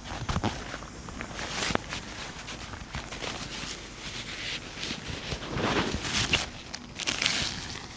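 Irregular footsteps, rustling and light knocks of someone moving about and handling gear, with a few louder scrapes near the middle and end.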